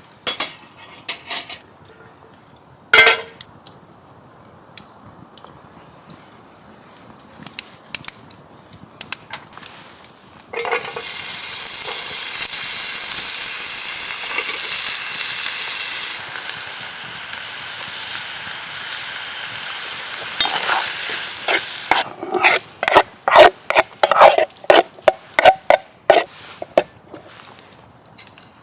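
Food sizzling in a hot pan, starting suddenly about a third of the way in, loudest for about five seconds, then settling to a lower sizzle. Then a utensil stirs and scrapes in the pan with quick clicks and knocks. Earlier there are a few scattered knocks, one of them loud.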